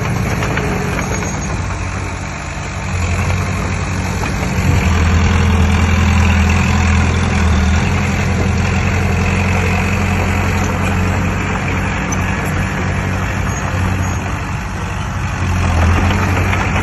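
Diesel engine of heavy earthmoving machinery running steadily, growing louder about three seconds in and again briefly near the end.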